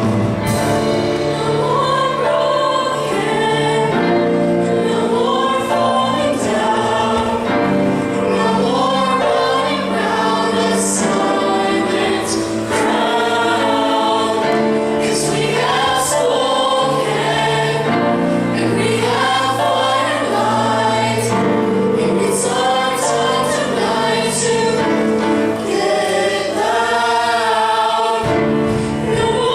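Mixed group of young voices singing a song in harmony over a steady instrumental accompaniment with sustained low notes.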